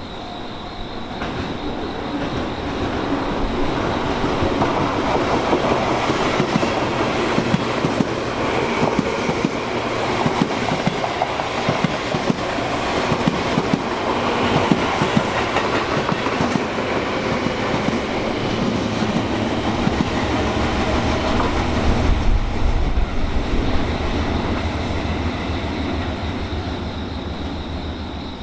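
Tobu Tojo Line electric commuter train running through the station, its wheels clacking over the rail joints. The sound builds up about two seconds in, stays strong, and fades near the end.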